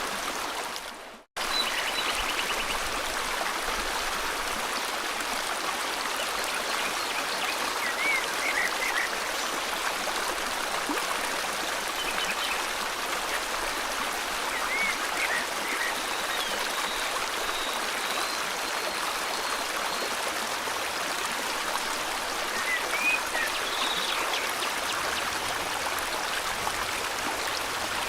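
River water flowing steadily, with a few short bird chirps and trills over it at intervals. About a second in the sound fades out almost completely and comes straight back, like a loop join.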